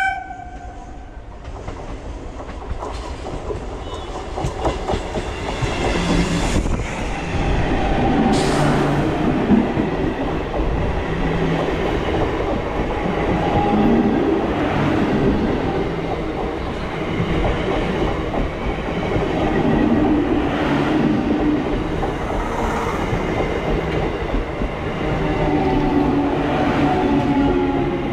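ICF-built EMU local train running past close by: a steady rumble of wheels on rail with a clickety-clack of wheels crossing rail joints. It grows louder over the first few seconds and then stays loud as the coaches go by.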